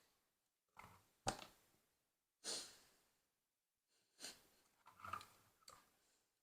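LEGO plastic pieces being handled: a few short rattles and clicks, with one sharp click about a second in.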